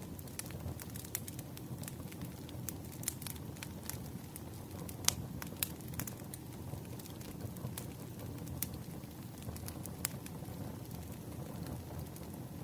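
Wood fire crackling: irregular sharp snaps and pops over a low, steady rumble, with one louder pop about five seconds in.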